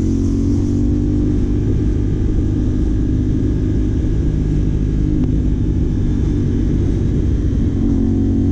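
CFMOTO 450 motorcycle's parallel-twin engine running at a steady, low engine speed through a Yoshimura AT2 slip-on replica exhaust while riding, picked up by a helmet intercom microphone.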